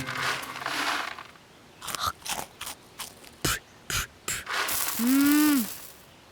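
Cartoon sound effects: a rush of noise, then a run of separate clicks and knocks, and near the end a louder rush with a short pitched sound that rises and then falls.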